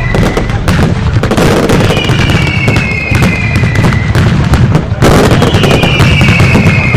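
A dense fireworks barrage: rapid, continuous bangs and crackling over a low rumble, with whistling fireworks whose shrill whistles fall in pitch, one fading out just after the start, another about two seconds in and a third about five and a half seconds in.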